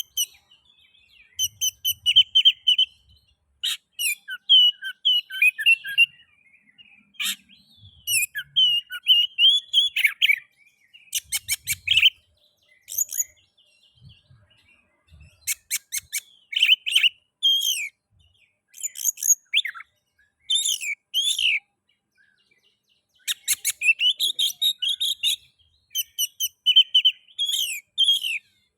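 Oriental magpie-robin singing: quick runs of whistled and chattering notes with rapid high clicks, in phrases of one to three seconds broken by short pauses.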